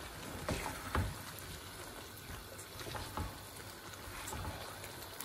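Chickpeas being stirred into a sizzling masala paste in a frying pan, the frying a steady hiss, with a few soft knocks and scrapes of a silicone spatula against the pan.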